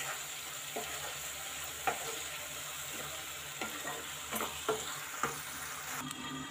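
Tomato-onion masala frying with a steady sizzle in a non-stick pan while a spatula stirs it, with a few sharp taps and scrapes of the spatula against the pan.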